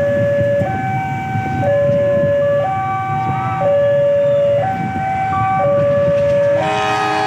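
Railway level crossing warning alarm sounding a two-tone signal, stepping between a low and a high note about once a second, over road traffic rumble. Near the end an approaching train's horn begins to sound.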